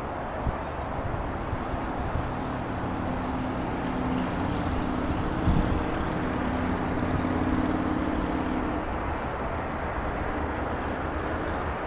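Outdoor city background noise with a low engine hum that swells from about two seconds in and fades out about nine seconds in.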